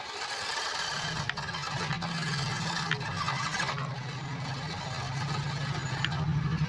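Toy RC crawler car's small electric motor and gearbox running steadily, a low hum that comes in about a second in, over a rough hiss with a few clicks.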